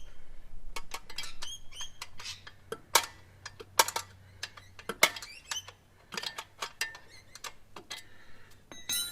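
Irregular metallic clinks and knocks of wrenches and steel parts as a motorcycle front fork leg is loosened and worked out of its clamps, with a few sharper knocks about 3, 4 and 5 seconds in.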